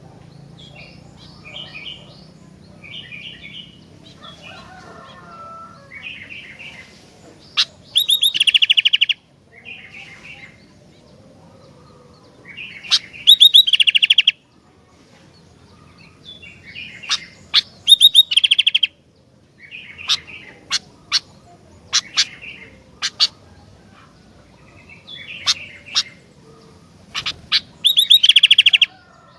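Kutilang (sooty-headed bulbul) singing: soft short chirping phrases over and over, broken four times by loud, rapid trilled bursts lasting about a second, with sharp loud single notes scattered between them.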